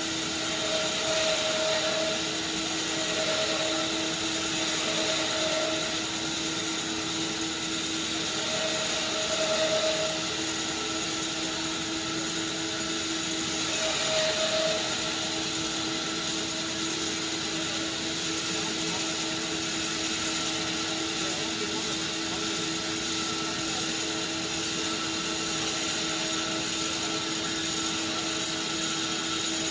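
Sawmill machinery running steadily, a constant machine hum over a high hiss, with a few short, higher tones coming and going.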